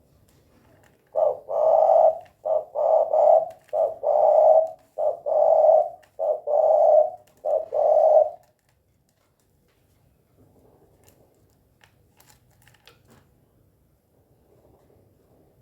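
Spotted dove (tekukur) cooing a full song phrase: a string of about nine low, hollow coos in short groups over some seven seconds, then stopping.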